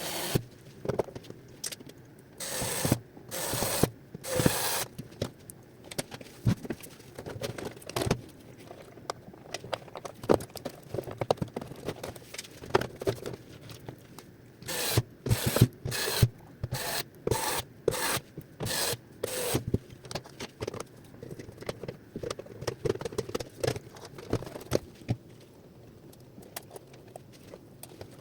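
Hands-on repair work on a robot vacuum cleaner: plastic parts scraping, rubbing and clicking, with short sharp bursts that come in quick runs of about two a second partway through and thin out near the end.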